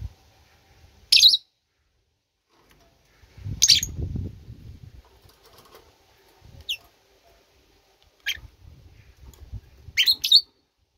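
A bird giving short, sharp chirps, about six in all, a second or more apart, with two in quick succession near the end, over low rustling.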